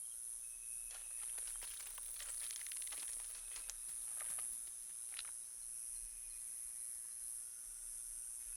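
Faint outdoor ambience: a steady high hiss with scattered soft crackles and snaps, mostly in the first half, and a faint brief high tone twice.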